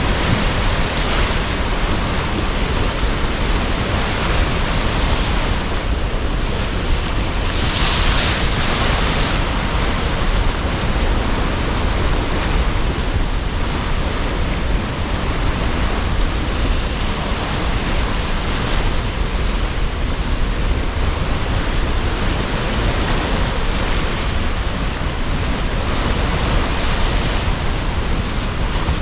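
Sea surf washing in under strong wind: a continuous rushing noise with slow swells as waves break, one noticeably stronger about a quarter of the way through.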